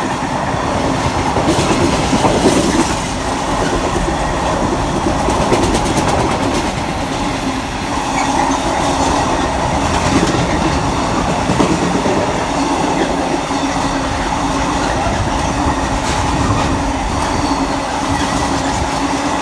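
Freight train hauled by a Class 66 diesel locomotive rolling through the station, its wagons running steadily past on the rails. A thin high squeal comes in for a few seconds about five seconds in.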